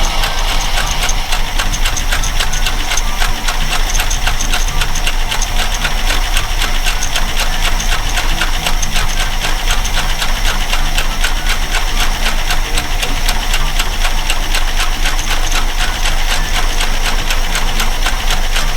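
A parts truck's engine, just started after its fuel pump was refitted, running at a steady idle with a fast, even ticking.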